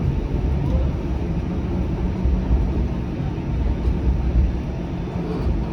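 Flexity Outlook low-floor streetcar under way, heard from inside the passenger cabin: a steady low rumble of running gear and wheels on rail, with a faint steady hum.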